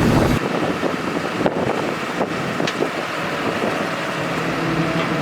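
Cummins 6.7L ISB diesel engine of a Freightliner M2 dump truck idling. Its low rumble drops away sharply about half a second in, leaving a steadier hiss with a few light clicks, and the engine's steady tone comes back near the end.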